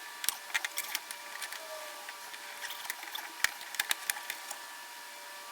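Irregular light clicks and knocks of the lock rods, clips and latch linkage inside a Jeep Comanche door as it is worked by hand, with a cluster early on and another about three and a half seconds in. The mechanism is binding somewhere after reassembly.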